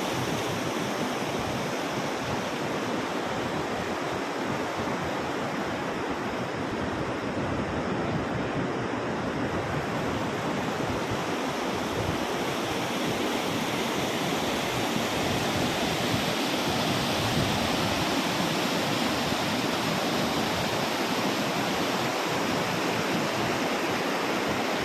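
Steady rushing of the Yamuna River's flowing water, an even roar with no break, growing slightly louder about halfway through.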